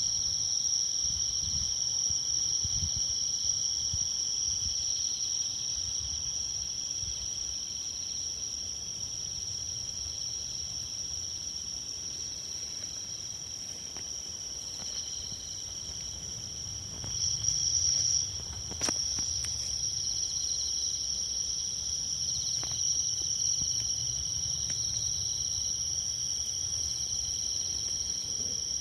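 A chorus of insects trilling steadily in several high-pitched overlapping tones, over a low rumble, with a few sharp pops from a campfire scattered through, the clearest about two-thirds of the way in.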